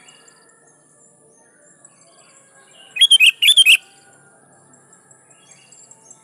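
Sooty-headed bulbul giving one short, loud burst of quick, bubbly whistled notes about three seconds in. Fainter chirps of other birds and a steady high-pitched hiss run underneath.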